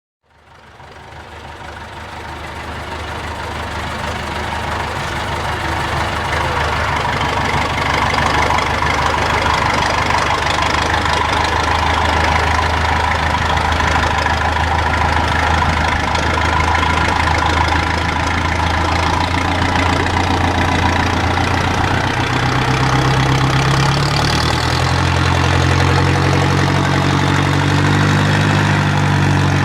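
IFA W50 truck engine running steadily, fading in over the first few seconds; its speed picks up a little about three-quarters of the way through.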